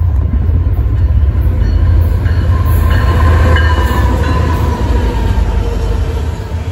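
BNSF coal train's lead diesel locomotives, a GE Evolution-series and an EMD SD70ACE, passing close at speed: a loud, heavy, steady rumble, with an engine whine that drops in pitch about halfway through as they go by.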